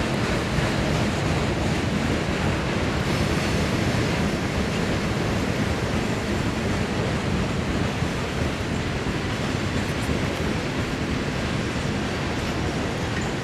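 A passing freight train: a steady rushing rumble of rolling railcars that eases slightly near the end.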